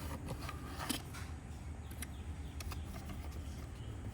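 Handling of a toy's plastic packaging: a few scattered light clicks and crinkles over a steady low hum.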